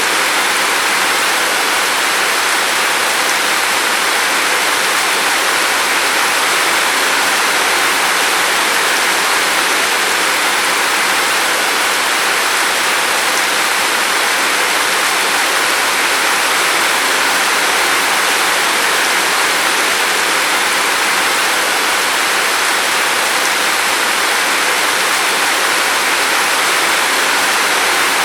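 Steady rain falling, an even hiss with no distinct drops or changes.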